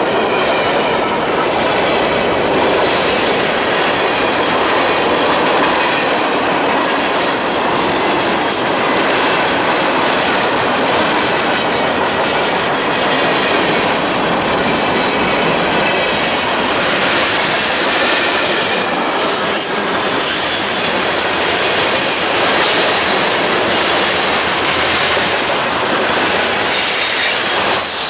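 Train rolling past at close range: a steady, loud rumble and rattle of railcars over the rails, with some high wheel squeal.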